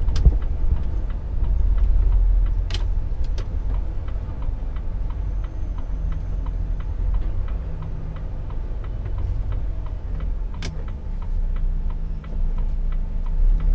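Inside a Volvo truck's cab: a steady low engine and road rumble with the turn-signal indicator ticking evenly, about two ticks a second, while negotiating a roundabout. A few louder sharp clicks stand out, near the start, a few seconds in and about two-thirds through.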